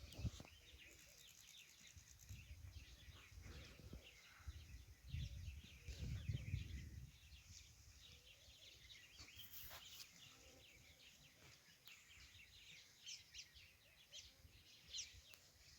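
Faint birds chirping and trilling with many short calls, over low rumbling noise that swells about a third of the way in.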